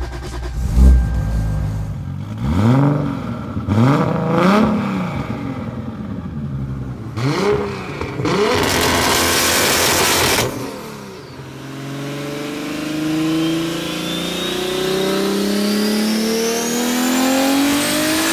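Toyota Supra MKIV's twin-turbo 2JZ-GTE straight-six through a Tomei full titanium 4-inch cat-back exhaust. Three throttle blips rev it up and let it drop back, then comes a couple of seconds of loud rushing noise. In the second half it pulls through a long acceleration, its pitch climbing steadily.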